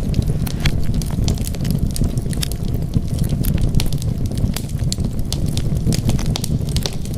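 Wood fire crackling: frequent sharp pops and snaps scattered irregularly over a steady low rumble of the burning fire.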